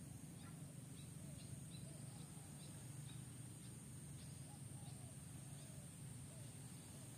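Faint outdoor ambience: scattered faint bird chirps over a steady low hum and a steady high-pitched drone.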